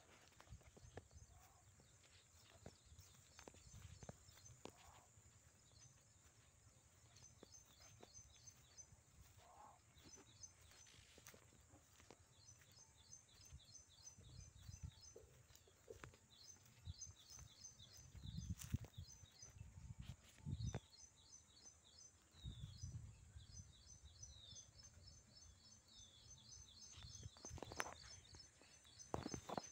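Faint outdoor ambience: small birds chirping in quick runs of short, repeated high notes, with occasional low rumbles.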